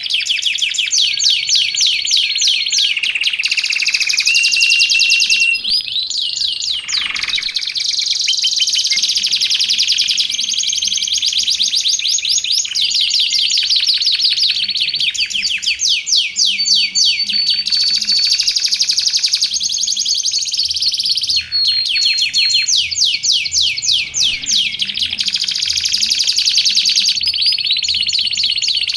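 Domestic canary singing without pause: a fast run of rapid trills of repeated notes that change to a new trill every second or two, broken by a few short held whistled notes.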